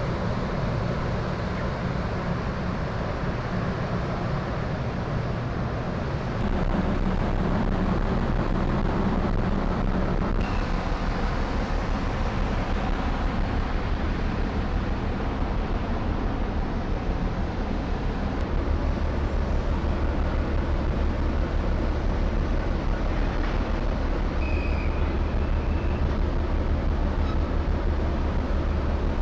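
Car ferry under way: a steady low engine rumble under a continuous rushing noise, growing louder about six seconds in and again a little before twenty seconds.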